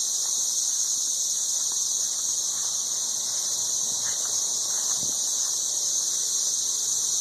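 Dense chorus of 13-year periodical cicadas: an unbroken, high-pitched buzzing drone, ridiculously loud. It is the mating chorus of the males up in the trees.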